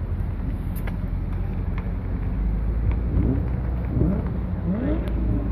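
A car engine idling, a steady low rumble, with faint voices rising and falling a few seconds in.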